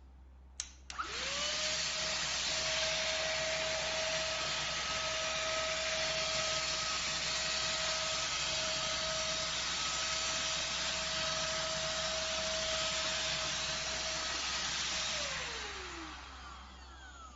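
ST6101 cordless vacuum cleaner switched on with a couple of clicks, its motor spinning up to a steady high whine over a rushing hiss of air. About fifteen seconds in it is switched off and the motor winds down with a falling whine.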